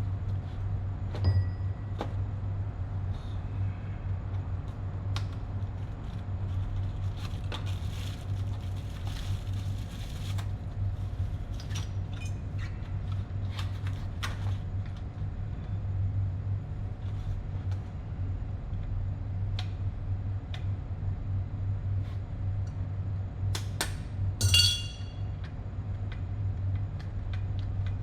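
Steady low hum of running plant-room machinery, with scattered light metal clinks and taps from tools being handled. A sharper ringing clink comes near the end.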